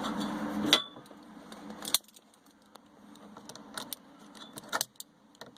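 A power drill whirring stops with a sharp click less than a second in, followed by light metallic clinks and taps of tools and battery hardware.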